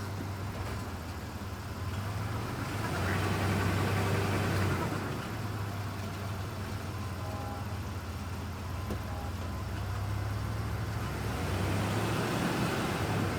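A 1994 Ford Ranger's 3.0 V6 idles with a steady low hum while its automatic transmission is shifted between neutral and drive. The noise, heard only in gear, swells about three seconds in and again near the end. The transmission fluid had run low and left metallic traces on the dipstick.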